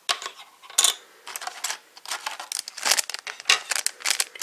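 Rustling and crinkling of a plastic medal pack wrapper, with quick irregular clicks as a Yo-kai medal and packs are handled.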